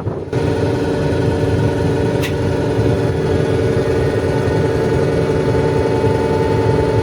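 A train's steady mechanical hum with several steady tones, coming in abruptly just after the start in place of wind noise.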